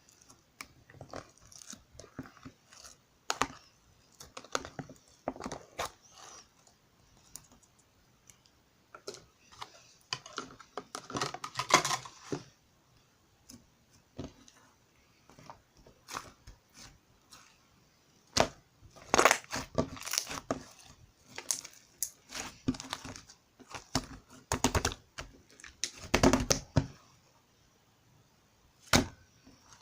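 Slime being squeezed, stretched and pressed by hand, with irregular clicks and crackling pops from the air bubbles trapped in it. There are denser runs of crackling a few times.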